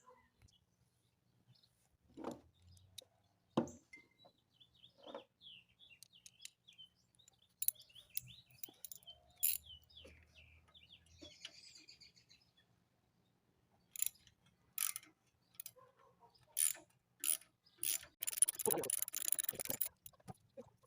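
Scattered metal clicks, knocks and rattles of hand tools working the cover off an old Briggs & Stratton lawnmower engine, busiest in a quick run of clatter near the end, with birds chirping in the first half.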